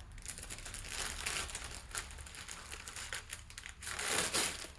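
Gloved hands rustling, with scattered light clicks, while handling new piston rings and a feeler gauge. The rustle is a little louder near the end.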